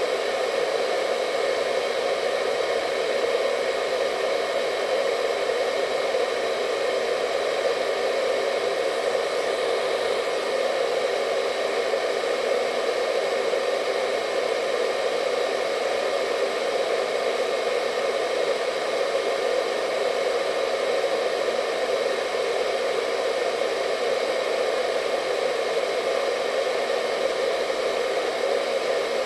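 Hair dryer running steadily: an even, unchanging rushing hum with a faint whine above it.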